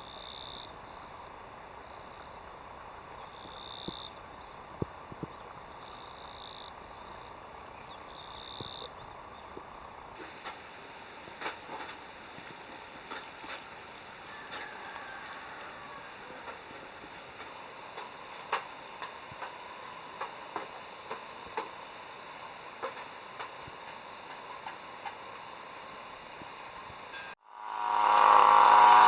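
Summer insects giving a steady high-pitched chorus, with scattered light ticks. About a third of the way in, the sound cuts to a louder, denser drone. Near the end it drops out and a much louder sound starts.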